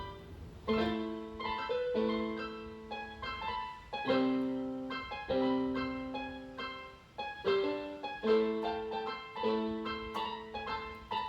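Background music: solo piano playing slow, gentle chords, a new chord struck about every second or so and left to fade.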